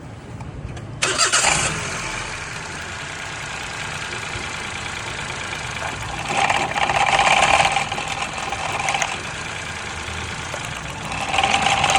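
Toyota car engine starting about a second in, then running steadily, growing louder twice for a second or two.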